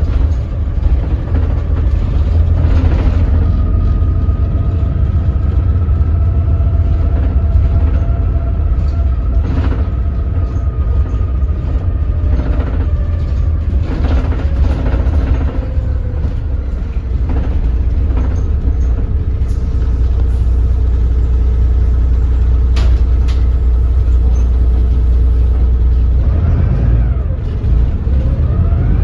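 Doosan DL08K inline-six diesel of a BS106 city bus running at low speed and low revs: a heavy, steady low rumble with a faint whine over it and scattered clicks and rattles, dipping briefly near the end.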